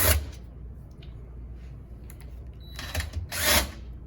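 Handling noises of a vacuum's parts being worked on: a loud clunk-and-rustle at the start, a few light clicks, then a second louder scraping rustle about three seconds in.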